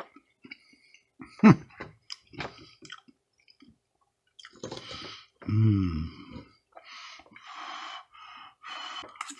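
A person chewing a mouthful of food, with short noisy mouth sounds throughout and two brief hums from the eater, one falling in pitch about a second and a half in and a lower one about halfway through.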